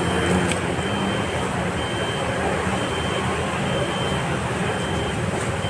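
Steady vehicle engine and road noise, a continuous low hum without a break.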